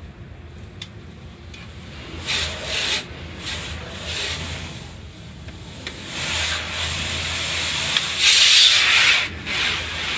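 Car wash equipment working over a car, a rushing, scrubbing noise that comes in surges and is loudest near the end, over a steady low hum.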